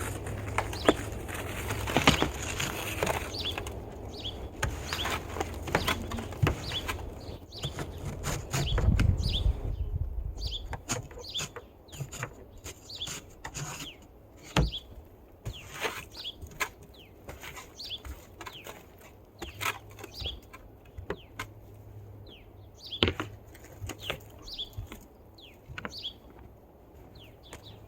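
Snow being cleared off a car by hand: a run of short, irregular scraping and crunching strokes, with a low rumble under them for the first ten seconds or so.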